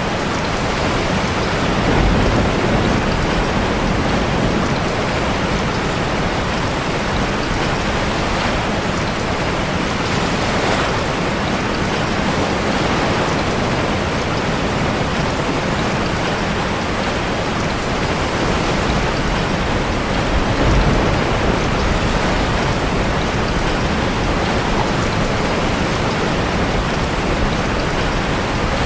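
Steady heavy rain mixed with surf, a dense, even rushing noise that swells louder briefly about two seconds in and again about twenty-one seconds in.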